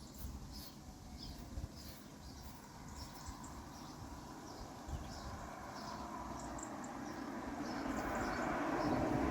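Small birds chirping in short high calls over an uneven low rumble of wind on the microphone. A rushing noise grows steadily louder through the second half.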